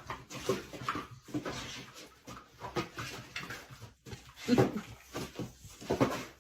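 A dog making a series of short, irregularly spaced vocal sounds.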